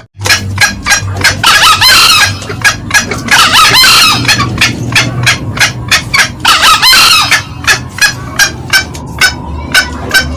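Green junglefowl calling: a steady run of short, sharp notes about three a second, with three longer, louder bursts of cackling a couple of seconds apart.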